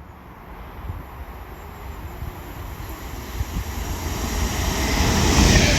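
Class 390 Pendolino electric train approaching at speed on an unstopped pass through a station, its wheel and track noise growing steadily louder toward the end.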